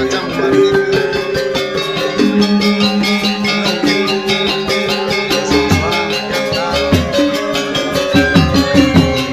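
Gamelan music: ringing metal-keyed instruments holding and changing tones over a fast, even percussive beat.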